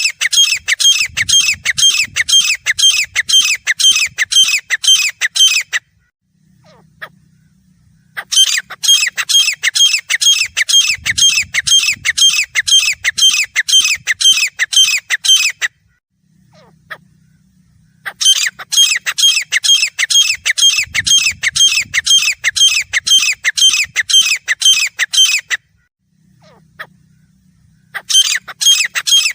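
Grey francolin calling: loud, harsh, high notes repeated quickly, about two and a half a second, in bouts of about eight seconds broken by pauses of about two seconds.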